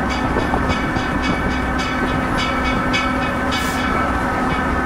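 Riding in a train behind a vintage self-propelled railway motorcar: the steady running rumble of the cars on the track under a constant engine drone, with a regular clicking about three to four times a second.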